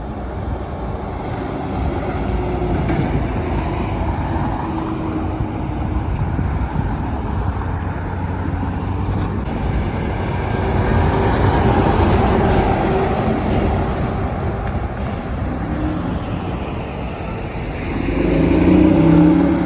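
Highway traffic going past: steady tyre and engine noise that swells as vehicles pass. It swells once in the middle and again near the end, where one vehicle's engine note stands out as it goes by close.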